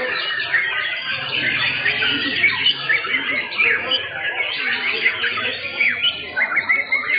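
Many white-rumped shamas (murai batu) singing at once: a dense, unbroken tangle of overlapping chirps, whistles and trills.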